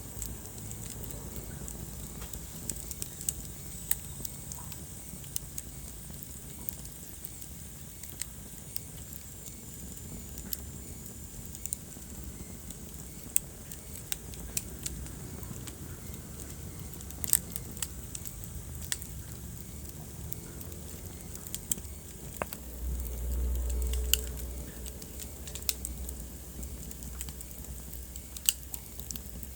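Wood fire crackling, with irregular sharp pops over a steady low rumble of flames. The rumble swells louder for about two seconds some 23 seconds in, and a faint high whistle sounds for several seconds near the start.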